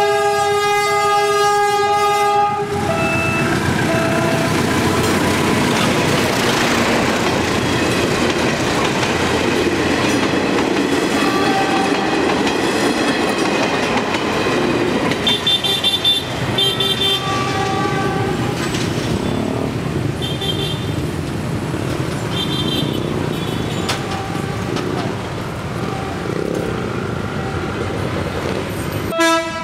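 Diesel locomotive sounding its multi-tone horn in a long blast, then a few short toots as it reaches the crossing. Then a passenger train passes close by with a steady roar of engine and wheels on rail, with brief high squeaks now and then. Another horn blast starts right at the end.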